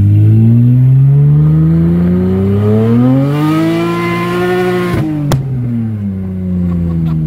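Nissan Maxima's swapped V6 with Nisformance headers, heard from inside the cabin, pulling hard with the revs climbing steadily for about four and a half seconds. Near the five-second mark the revs drop sharply, there is a click, and the engine note keeps falling as it comes off the throttle.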